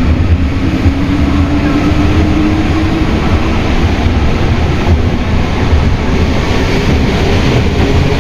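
Alstom NS-93 rubber-tyred metro train heard from inside the car, running with a loud, steady rumble. A motor whine rises in pitch over the first few seconds as the train gathers speed, then holds steady.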